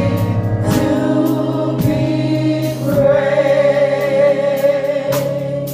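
A church choir singing a gospel song over held musical accompaniment, with a sharp percussive hit about once a second; the music eases down near the end.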